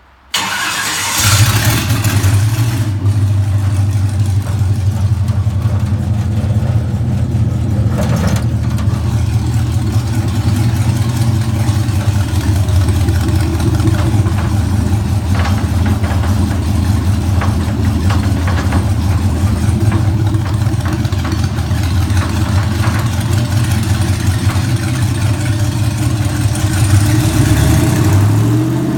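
Rebuilt all-aluminum Gen 4 Chevy 5.3-liter LS V8 with an LS9 camshaft starting up, catching about a second in and settling into a steady idle. Near the end it is revved up and back down.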